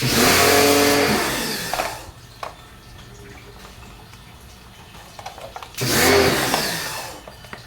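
Two bursts of a power tool's electric motor, one at the start and one about six seconds in, each starting at full speed and then winding down with falling pitch.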